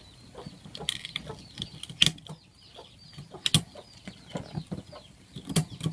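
Irregular sharp knocks and clatter, with small birds or chicks chirping repeatedly in short, falling peeps.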